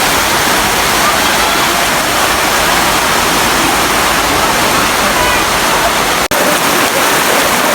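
Hot spring waterfall: a steady, loud rush of falling and splashing water. It breaks off for an instant about six seconds in.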